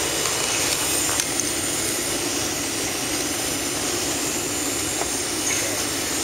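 Steady roar of engines and rushing air heard inside the cabin of a Boeing 757-300 airliner.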